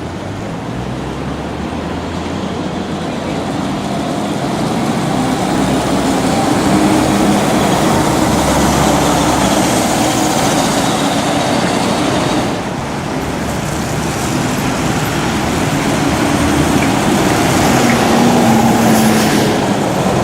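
Diesel bus engine running under load, its note and loudness building, easing off briefly about twelve seconds in, then building again.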